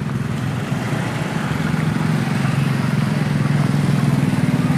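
Motorcycle and small-truck engines running in slow-moving procession traffic, a steady low engine drone with the pulsing of a nearby motorcycle engine.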